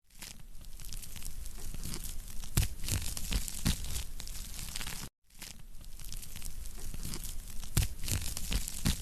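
Wood fire burning in a fireplace: steady crackling with scattered sharp pops of the burning logs. The sound drops out abruptly for a split second about five seconds in.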